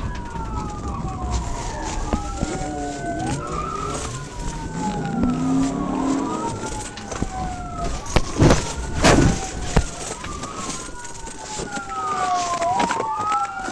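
Police car siren on a slow wail, rising and falling every few seconds over road and engine noise. Two sharp knocks come about eight and a half and nine seconds in.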